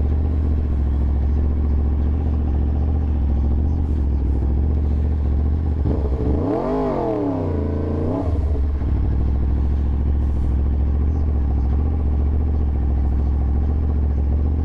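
Yamaha YZF-R1's inline-four engine running steadily, with one rise and fall in revs about halfway through.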